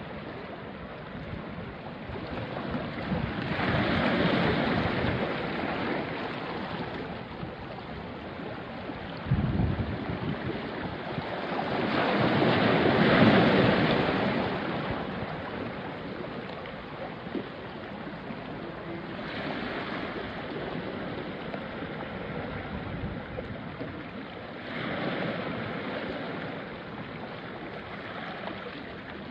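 Small sea waves washing up onto a rocky shore, each swell rising and falling away, with the biggest surge about halfway through. A brief low rumble of wind on the microphone comes about a third of the way in.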